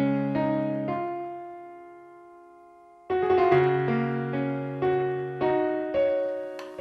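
Solo piano music: slow chords left to ring and fade, falling quiet for a moment before a new phrase begins about three seconds in.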